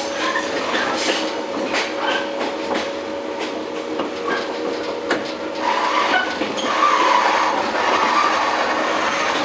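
Running sound inside a JR 115 series electric train's motor car (MoHa 114): steady hum from the running gear with a scatter of sharp clicks from the wheels over rail joints, and a brighter, harsher patch of sound over the last few seconds.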